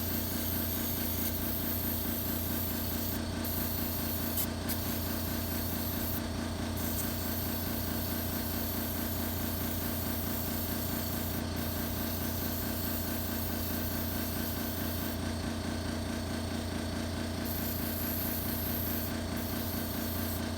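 Aerosol brake cleaner sprayed full blast in long hissing bursts, with a few short pauses, over a steady machine hum.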